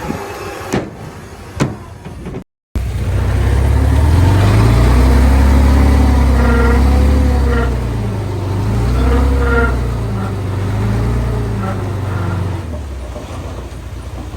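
Heavy diesel engine of earthmoving machinery working hard, its pitch rising and falling under load, then easing off near the end. Before it, a few sharp knocks, then a short break in the sound.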